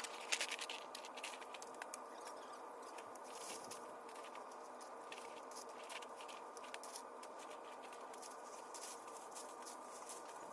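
Outdoor work sound sped up sevenfold: a steady hiss with rapid scattered crackling and clicking, from vines being pulled and cut off a pear tree.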